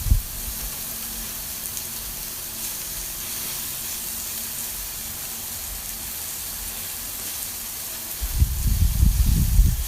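Thin-sliced pork belly sizzling on a hot grill pan, a steady soft hiss while it cooks. About eight seconds in, low rumbling bumps join it.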